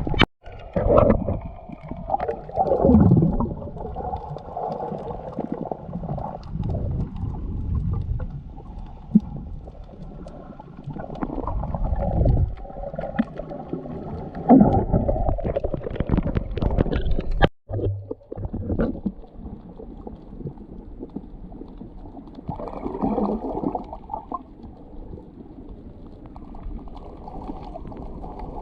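Muffled water sounds picked up by a camera in the sea: gurgling and sloshing with low rumbles and slow swelling rushes. The sound cuts out briefly twice, near the start and a little past the middle.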